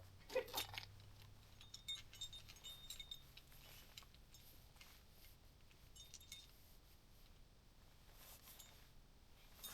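Faint, scattered metallic clinking and jingling of climbing gear, nuts and carabiners knocking together as protection is cleaned and racked.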